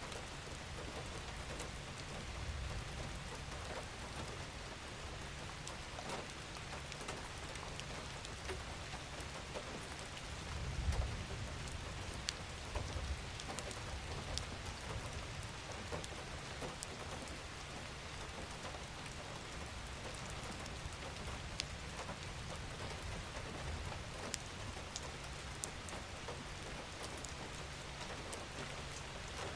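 Steady rain falling on a surface, with scattered individual drops ticking through it. A low rumble swells briefly about ten seconds in.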